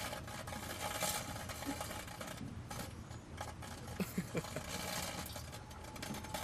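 Microwave oven running with a steady buzzing hum, with a few short crackles about four seconds in.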